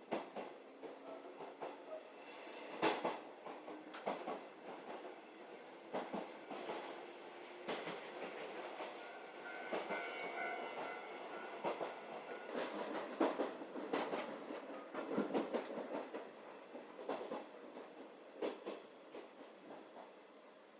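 711 series electric train running, heard from inside the carriage: a steady ride rumble with the wheels knocking over rail joints in irregular clusters of clacks.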